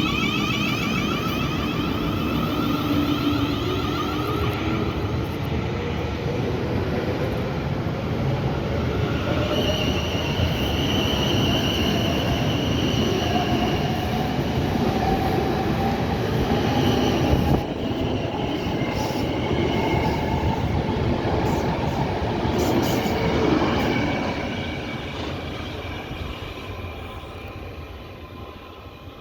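Electric multiple-unit train pulling out of the station, its traction motor whine rising in pitch as it speeds up, with wheel squeal and rail noise. The sound fades away over the last few seconds.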